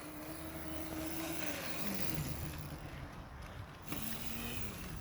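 Dirt bike engine running at a distance, its note steady and then dropping in pitch about one and a half seconds in, with a shorter, lower engine note near the end.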